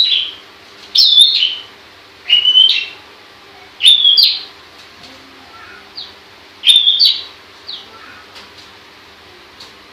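Long-tailed shrike (pentet) calling: five loud, short phrases of two quick notes each, a second or two apart, then only a few faint notes from about seven seconds in.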